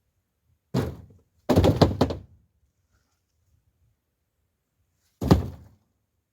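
Firewood logs landing with wooden thunks: a single knock, then a quick clatter of several knocks, then another single knock a few seconds later.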